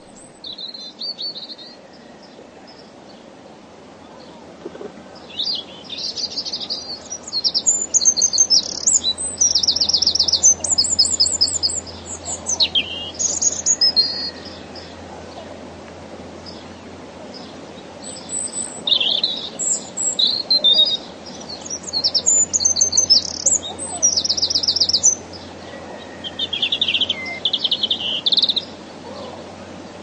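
A songbird singing several bursts of high, rapid trilled and chirping phrases, with pauses of a few seconds between them, over a faint steady background hiss.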